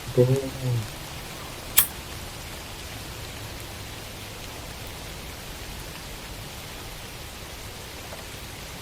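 Steady, even hiss of background noise, with a brief voice sound at the start and a single sharp click about two seconds in.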